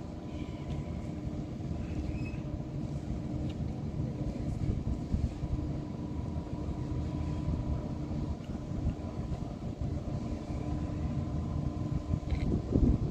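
Public-transport vehicle running: a steady low rumble with a thin, steady whine over it, and a louder knock near the end.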